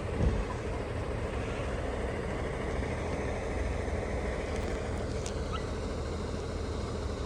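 Steady city road traffic noise at a street intersection, with a brief low thump just after the start.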